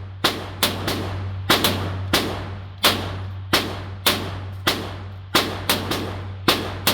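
Taurus TX22 .22 LR pistol firing a rapid string of about fifteen shots through a magazine, at an uneven pace of a few shots a second, each crack trailing off in echo. A steady low hum runs beneath.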